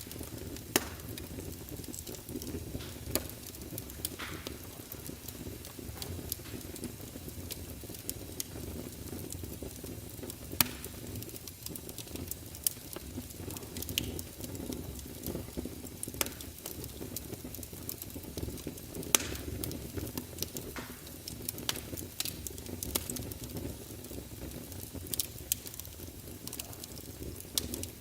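Wood fire burning in a fireplace: a steady low rumble of flames under frequent irregular crackles, with a few louder sharp pops.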